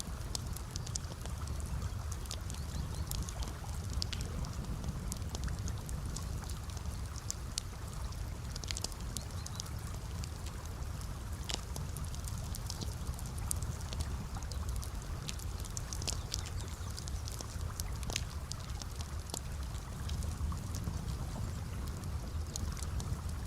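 Campfire crackling: irregular sharp snaps and pops, several a second, over a steady low rumble.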